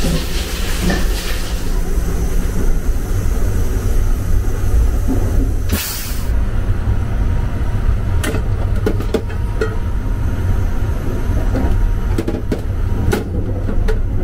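Steady low rumble of the Sunrise Izumo sleeper train running, heard from inside its small shower room. A short hiss comes about six seconds in, and several light clicks and knocks follow near the end.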